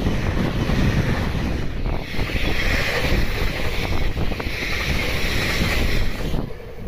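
Electric trains passing close by on ballasted track: a Tobu commuter train and then a limited express, their wheels on the rails giving a steady rumble with a hiss that grows stronger from about two seconds in. Heavy wind buffets the microphone throughout.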